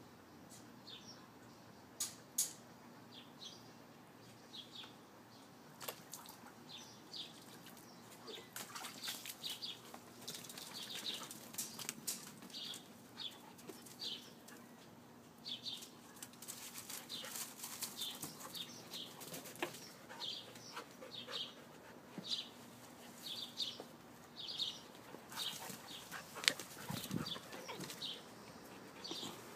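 A small bird chirping over and over, short high chirps about once a second, over the scuffling and rustling of husky puppies playing on dirt and blankets, with a few sharp clicks and knocks.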